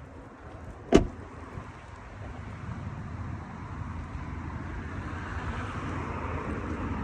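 A single sharp thump about a second in, then the steady noise of a car that grows gradually louder.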